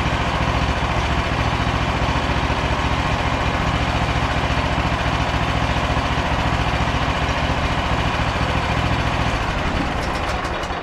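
Petrol engine of a Frontier OS27 portable bandsaw mill running steadily, then dying away right at the end.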